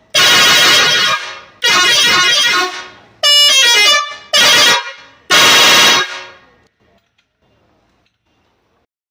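Vehicle horn honked in five loud blasts of about a second or less each. One blast in the middle has a different pitch that shifts as it sounds. The horn then falls silent for the last few seconds.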